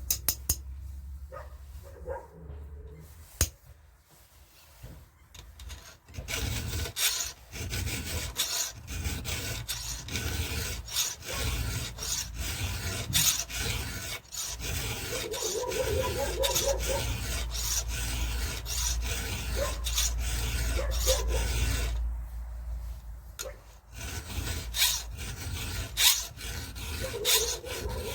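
Hand file rasping across the cutters of a Stihl MS 170's saw chain, stroke after stroke. After a few scattered clicks, the filing starts about six seconds in, breaks off briefly near the end, then resumes.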